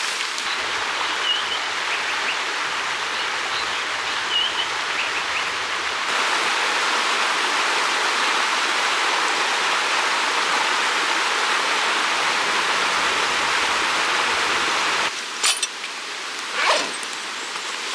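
Steady rushing outdoor noise with a couple of short bird chirps in the first few seconds. It grows a little louder about a third of the way in, then drops near the end, where a few sharp clicks and knocks are heard.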